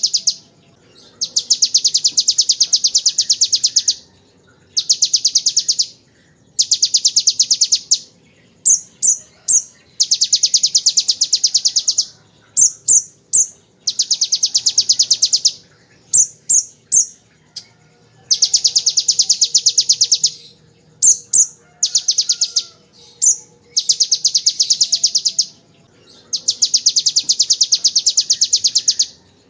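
Kolibri ninja (a sunbird) singing fast, rattling 'ngebren' trills copied from the bar-winged prinia: high buzzy trills of one to three seconds, repeated about eight times, with short bursts of two or three sharp chirps in the gaps.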